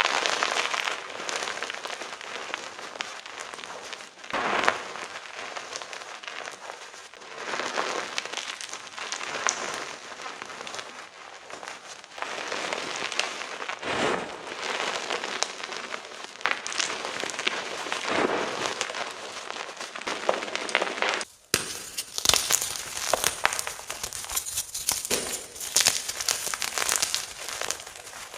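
Gym chalk crunching and crumbling: a dense run of crisp crackles with louder surges every second or two. About 21 seconds in, the sound breaks off abruptly and a crisper, hissier crunching starts.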